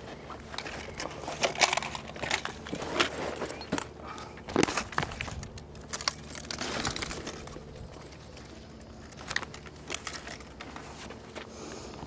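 Flight gear (a headset, seat cushion and bag) being picked up and handled: irregular rustling with scattered clicks and clinks.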